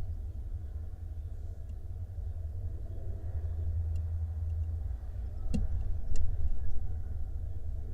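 A steady low rumble, with two sharp knocks about five and a half seconds in, half a second apart.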